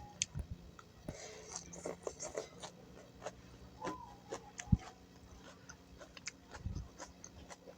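Close-miked chewing and crunching while eating pecel vegetable salad with crackers: irregular crisp clicks and crunches, with a few soft low thumps. A short high call sounds about four seconds in.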